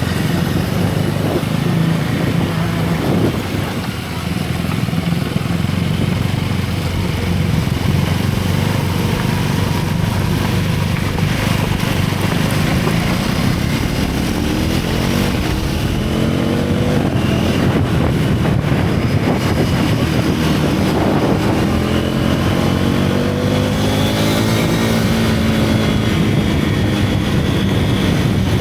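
Single-cylinder motorcycle engine and exhaust, ridden and filmed from the rider's own bike, pulling under throttle. The revs climb twice, in the middle and again later on, as the bike accelerates.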